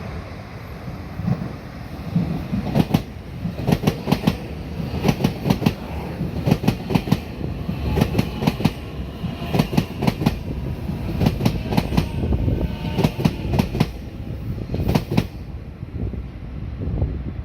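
Diesel multiple-unit express train passing at speed, its wheels clacking in quick groups over the rail joints under a steady rumble; the clacking stops about fifteen seconds in as the last car goes by.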